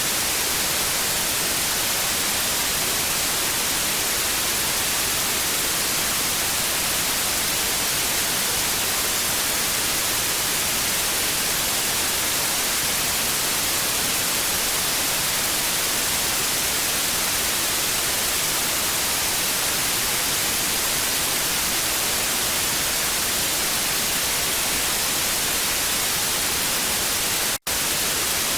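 TV static hiss: a steady, even white-noise rush, strongest in the high end. It cuts out for a split second near the end.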